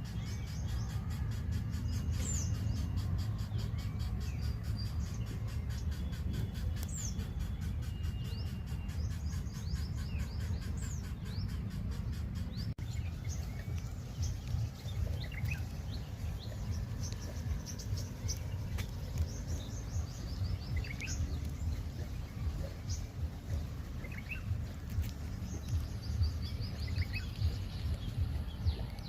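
Small birds chirping in short high notes, more often in the second half, over a steady low rumble.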